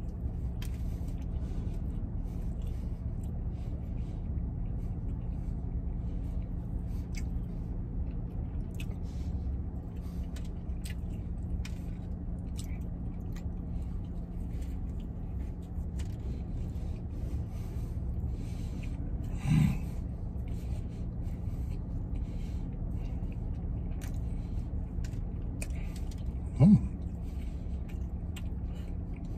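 A man chewing and eating a donut sandwich, with faint wet mouth clicks, over a steady low hum in a truck cab. Twice, a little after halfway and again near the end, a short hummed 'mm' from the eater.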